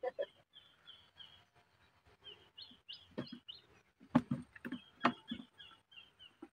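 A small bird chirping: a quick, repeated series of short, high, falling notes. A few soft knocks come through the second half.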